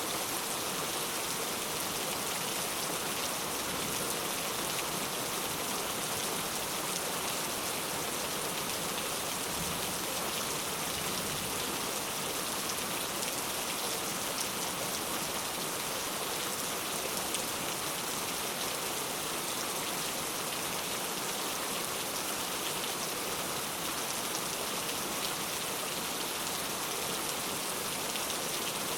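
Steady rainfall with a dense patter of drops hitting a surface, even and unbroken throughout.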